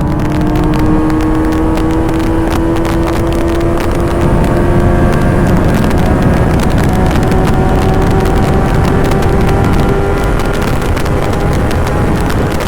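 Kawasaki ZX-10R's inline-four engine pulling hard at high revs in a single gear, its pitch climbing slowly and steadily as speed builds. Heavy wind noise buffets the microphone throughout.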